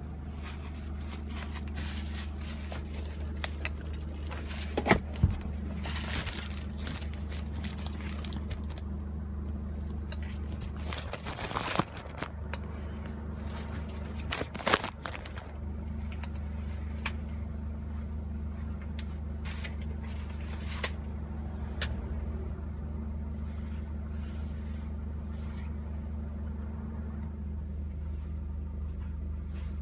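One-ton truck's engine and road noise in a steady low drone while driving, heard from inside the cab. A few sharp knocks and rattles stand out, the loudest about five seconds in, with more around twelve and fifteen seconds.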